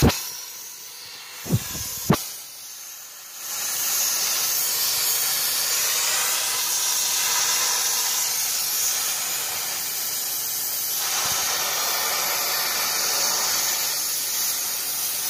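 Soldering torch flame hissing steadily on copper pipe. Near the start the hiss drops away for a few seconds, with two sharp clicks, then comes back steady from about three and a half seconds in.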